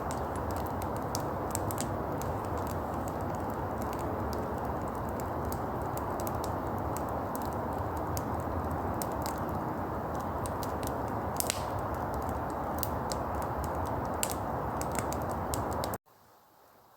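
Wood fire burning, with scattered sharp crackles and pops over a steady low rushing noise. It cuts off abruptly near the end.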